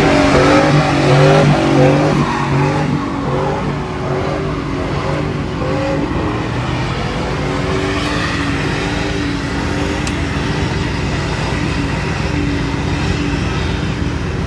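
GMC Sierra's 5.3 L V8 held at high revs, the pitch breaking up choppily for the first few seconds, then running steadier.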